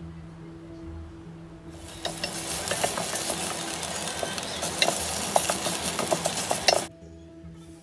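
Green curry paste frying in hot oil in a stainless steel pot and being stirred with a wooden spoon: a loud sizzle with small clicks of the spoon against the pot. The sizzle starts about two seconds in and cuts off suddenly near the end.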